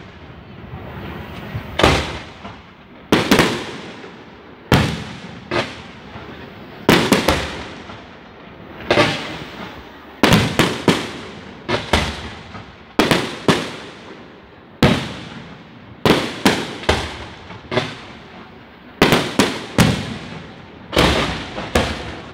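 Aerial fireworks display: a run of shell bursts, each a sharp bang with a trailing echo, about one every second or two at first, then coming faster and often in close pairs from about ten seconds in.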